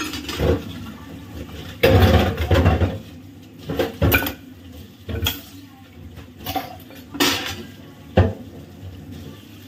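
Steel pans and kitchen utensils knocking and clattering as they are handled and washed at a sink, in irregular clanks about a second apart.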